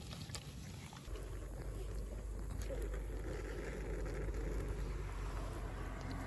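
Small twig fire burning hard in a tabletop camp stove after a big load of wood: a steady rush of flames with scattered small crackles. A low rumble comes in about a second in and the sound grows fuller.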